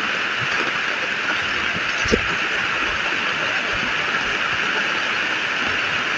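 Rain falling steadily onto flooded ground and puddles: a constant hiss with scattered drops tapping, and one louder tap about two seconds in.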